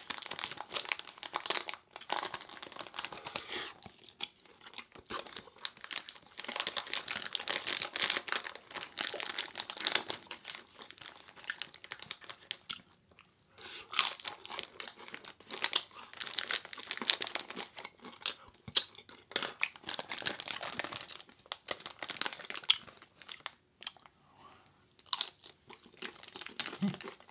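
Close-miked crunching and chewing of Doritos tortilla chips, in steady runs of crisp crunches with brief pauses.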